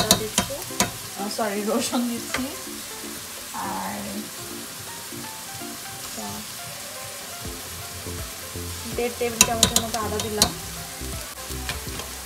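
Sliced onions sizzling as they fry in oil in a nonstick wok, stirred and scraped with a spatula. Sharp clicks of utensils against the pan come at the start and again about nine to ten seconds in.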